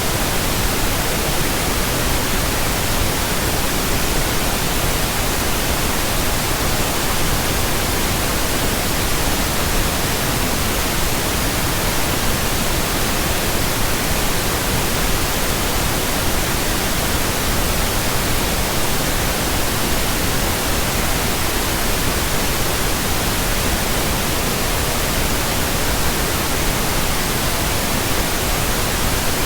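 Pink noise: a steady, unchanging hiss spread evenly across the whole range from low to high, with no change from start to end.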